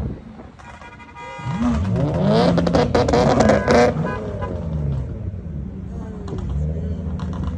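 Car engines revving as cars drive past, their pitch rising and falling, loudest from about two to four seconds in.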